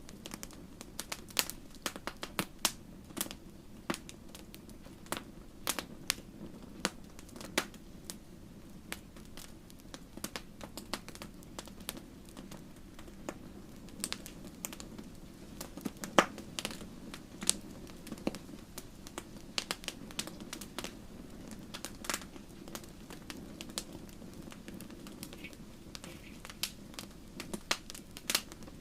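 Wood fire crackling steadily: many sharp, irregular pops and snaps over a soft low rumble of burning.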